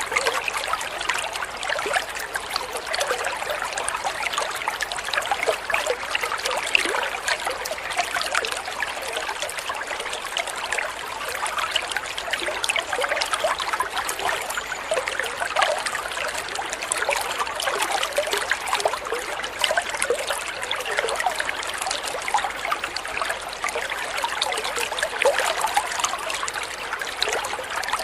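Shallow water trickling and babbling steadily over stones, a continuous splashy burble.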